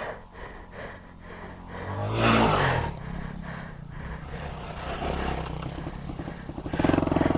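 Single-cylinder engine of a Yamaha WR250X supermoto with an aftermarket Delta exhaust, revving in a loud surge about two seconds in, then running at low revs, and rising again near the end.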